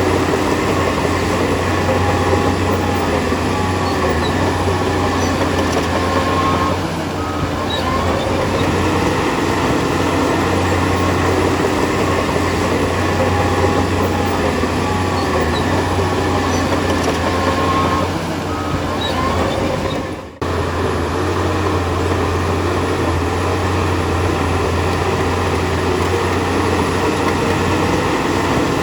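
Heavy diesel earthmoving machinery, a bulldozer at work, running steadily with a deep engine hum and brief faint squeals. The sound drops out for an instant about twenty seconds in.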